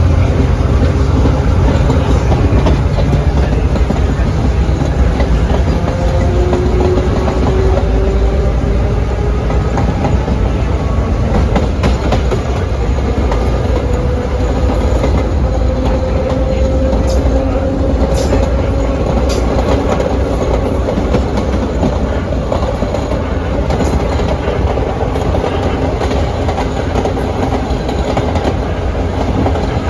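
Vintage R1/9 subway car running on the line: steady wheel and track rumble with a traction-motor whine that slowly rises in pitch as the train gathers speed, and a run of sharp clicks from the rails about two-thirds of the way through.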